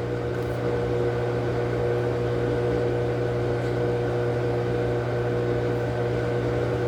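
Steady machine hum with a few constant tones, unchanged throughout.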